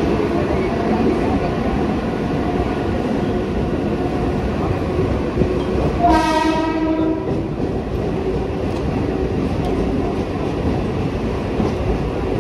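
Mumbai local electric train's horn sounding once for about a second, near the middle, over a steady noise of the train running on the rails.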